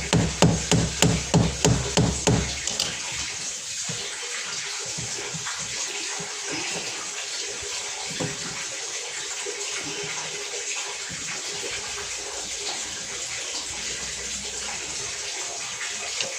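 Electronic music with a steady beat for about the first two and a half seconds, then a steady rush of running water.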